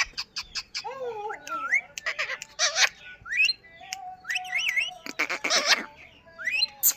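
Indian ringneck parrot chattering: a quick run of clicks, short rising whistled calls, and two harsh squawks.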